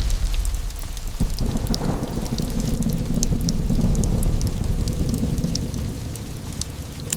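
Thunder over steady rain: a sharp crack about a second in, then a long low rumble that swells and fades toward the end. Scattered sharp crackles and drips run through it.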